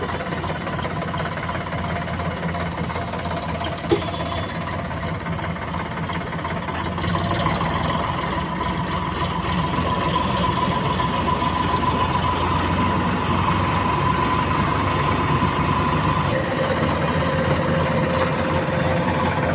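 Diesel machinery engine running steadily, with a single sharp click about four seconds in. About seven seconds in it grows louder and a high steady whine joins, which drops to a lower whine near the end.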